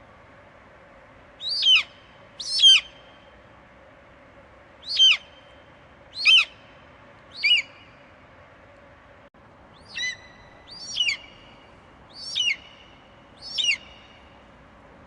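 Eagle screeching: about nine short, high, piercing calls, each falling sharply in pitch, in a group of five and then a group of four. A faint steady hiss lies underneath.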